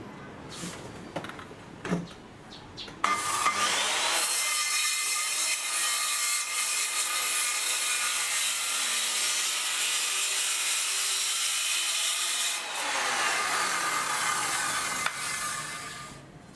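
1985 Makita circular saw motor started after a few handling clicks, rising in pitch as it spins up. It runs with a steady high whine for about nine seconds, then is switched off and winds down with a falling pitch.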